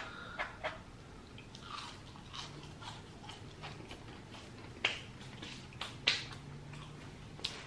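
A man chewing a mouthful of food with his mouth closed, with irregular wet mouth clicks and smacks.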